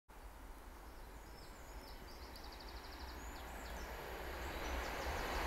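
Approaching train, a rushing noise that grows steadily louder as it nears. Birds chirp faintly over a steady low rumble.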